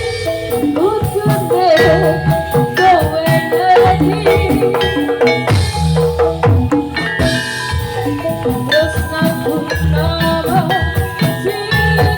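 Javanese gamelan music accompanying a Jathilan horse dance: bronze metallophones and gongs play a melody over kendang drum strokes, with a wavering, ornamented vocal line sung above them.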